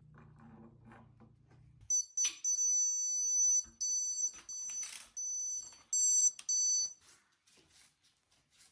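High-pitched electronic beeping: a shrill tone sounding in several bursts of uneven length for about five seconds, with sharp clicks in between.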